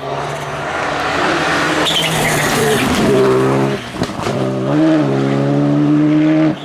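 Rally car engine at high revs, growing louder as it approaches. Its pitch swings with gear changes, there is a brief lift a little past halfway, and then it holds a steady high pitch.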